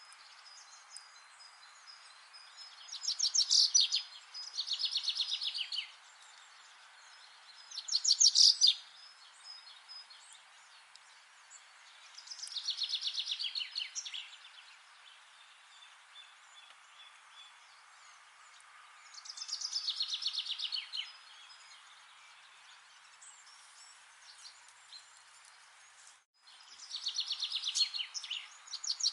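A songbird singing: a fast trilled phrase of rapid repeated notes, each lasting one to two seconds, repeated six times a few seconds apart over a steady background hiss. The sound drops out briefly near the end.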